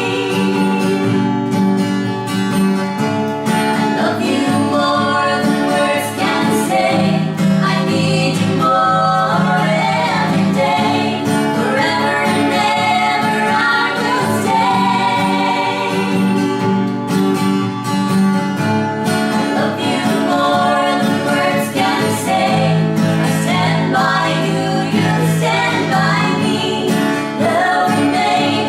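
Singers performing a slow song together over guitar accompaniment.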